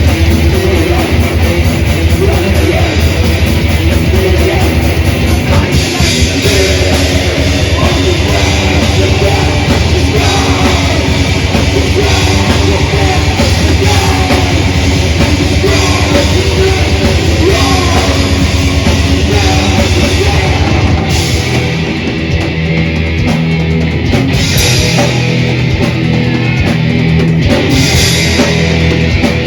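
Death/thrash metal band playing live: distorted electric guitars, bass and a drum kit at full volume. About 21 seconds in, the low end thins and the pattern changes, with cymbal crashes after it.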